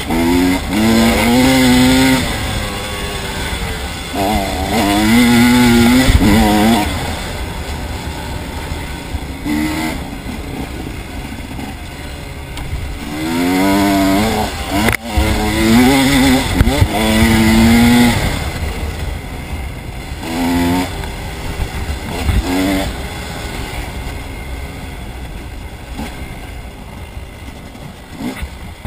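Motorbike engine revving hard and easing off again and again, its pitch climbing with each burst of throttle and dropping back between them.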